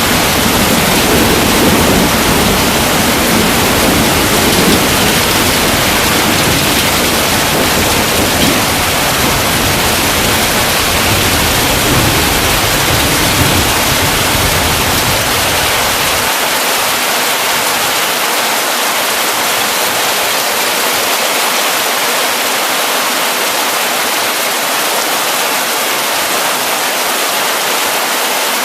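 Heavy rain pouring steadily as a dense, even hiss. A low rumble under it dies away a little over halfway through.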